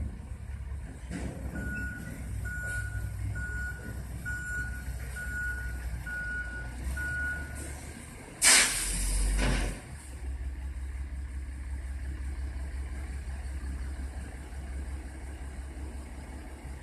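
Garbage truck idling with its reversing alarm beeping about eight times at an even pace, then a sudden loud hiss of air lasting about a second, typical of an air brake being released, over the steady engine rumble.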